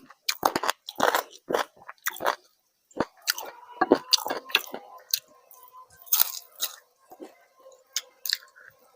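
A person eating close to the microphone: irregular crunchy bites and chewing, several crunches a second. A faint steady hum comes in about three seconds in.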